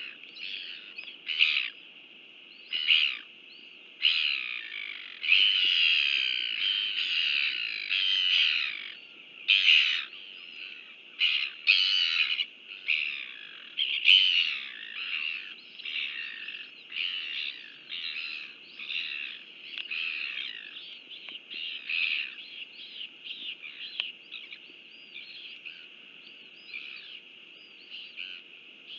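Small birds chirping and twittering in a busy run of short calls, densest in the first half and thinning toward the end.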